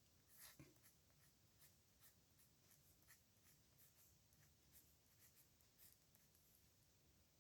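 Faint scratching of a pen on paper while handwriting: many short, irregular strokes, the strongest about half a second in.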